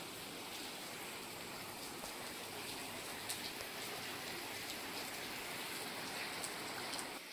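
Steady heavy rain falling, with a few separate drops ticking close by; it cuts off just before the end.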